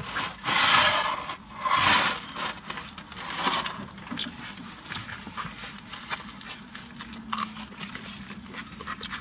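Close-up chewing and crunching of pizza crust: three loud crunchy bites in the first few seconds, then quieter chewing with soft mouth clicks.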